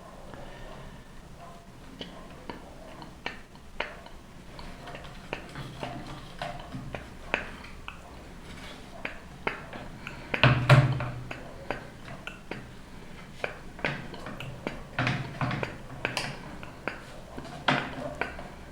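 Scattered light clicks and knocks of objects being handled, with a louder thump about ten and a half seconds in and a few more knocks around fifteen seconds.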